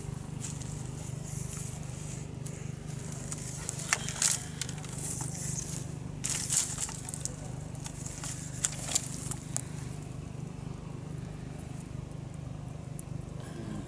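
Steady low drone of water pumps running, with scattered crackling rustles and sharp clicks, the loudest about four, six and a half and nine seconds in.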